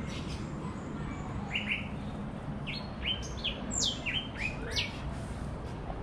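Small aviary birds chirping: a run of short, sharp calls, each dropping in pitch, beginning about a second and a half in.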